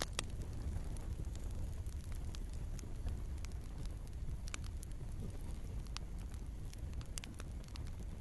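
Wood fire crackling in a fireplace: a steady low rumble of flames with irregular sharp snaps and pops from the burning logs, a few of them louder.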